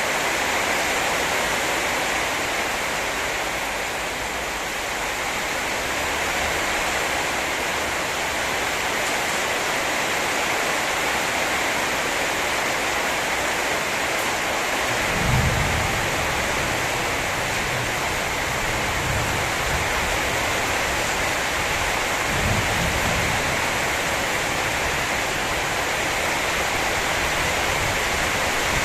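Heavy rain falling steadily in a storm, with two low rumbles, about halfway through and about two-thirds of the way through.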